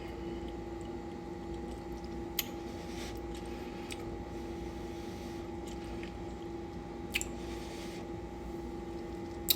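A person eating beans and cornbread, faint mouth and chewing sounds with a few soft clicks, over a steady hum.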